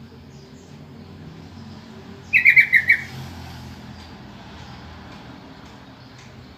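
Sooty-headed bulbul (trucukan) giving a brief call: a quick run of about five sharp notes, loud against a faint low background hum.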